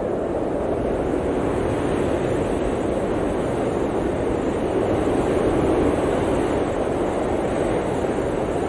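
Blizzard wind blowing steadily: a low, even rushing noise that swells a little about five seconds in.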